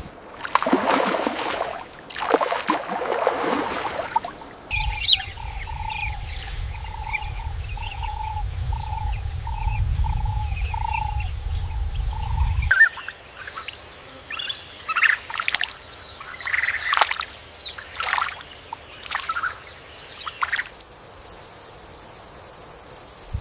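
Wild nature sounds cut together in sections that change abruptly: short bird chirps and calls over a steady high insect-like drone, with a low rumble under a repeated call in the middle section.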